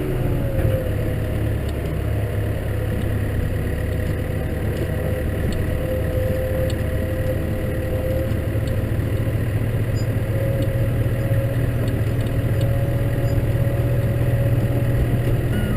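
Case tractor's diesel engine running steadily, its note easing down a little in the first second and then holding.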